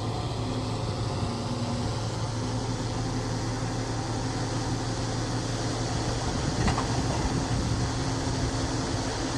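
Bulldozer engine running steadily with a low, even hum, and a single knock about two-thirds of the way through.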